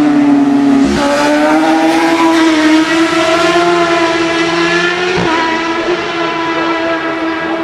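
Racing superbike engine running hard at high revs, its note holding nearly steady, with brief breaks about a second in and again about five seconds in.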